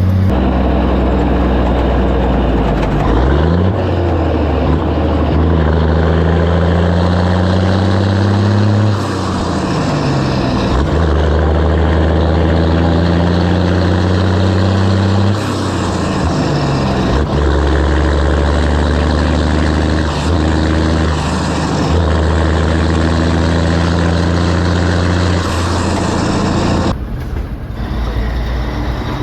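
Foden lorry's Caterpillar 3406B six-cylinder diesel running through a custom straight-through stainless exhaust while the lorry is driven up through the gears: the engine note climbs with the revs and drops at each gear change, several times over. It gets quieter near the end.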